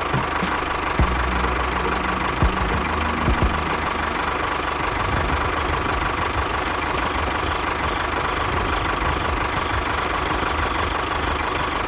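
An engine running steadily, with a few short knocks in the first four seconds.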